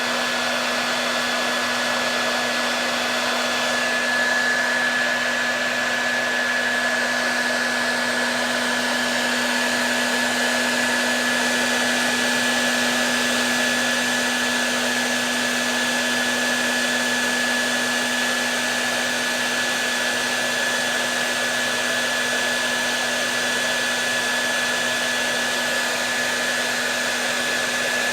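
Hair dryer running steadily: an even rush of air with a steady motor hum and a thin high whine.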